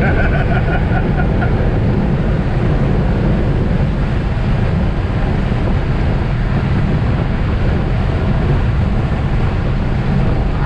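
Steady road and wind noise with engine rumble inside a car cruising at highway speed, around 90 to 100 mph.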